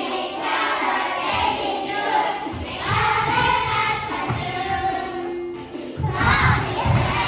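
A group of young children singing together with music.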